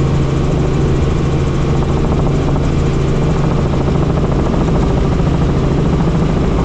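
Helicopter engine and rotor running steadily with a loud, unchanging drone and a deep steady hum.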